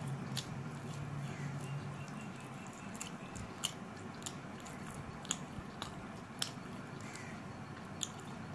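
Close-up sounds of a person eating rice and mutton curry by hand: chewing with irregular sharp wet mouth clicks and smacks. A low steady hum under it stops about two and a half seconds in.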